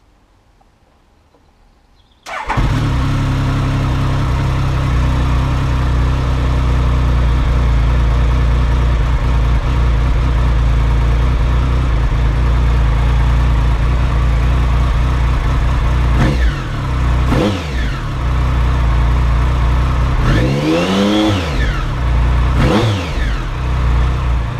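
2005 Triumph Sprint ST 1050's three-cylinder engine, fitted with an aftermarket TOR exhaust, starting about two seconds in and then idling warm, at operating temperature, while its three throttle bodies are balanced. Its pitch rises and falls a few times in the second half.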